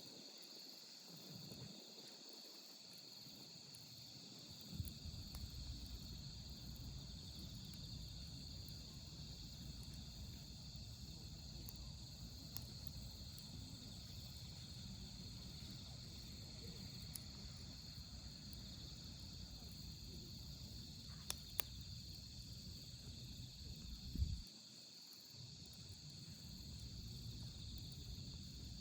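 Wood fire burning in a steel fire pit with a low rumble and a few sharp pops, the loudest near the end, over a steady chorus of autumn night insects such as crickets singing.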